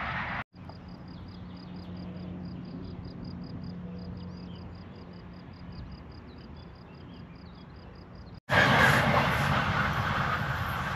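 Swiss electric trains: first a quieter stretch with a steady low hum and a rhythmic high chirping. After a cut about eight and a half seconds in, a train passes close by with loud rushing rail and wheel noise.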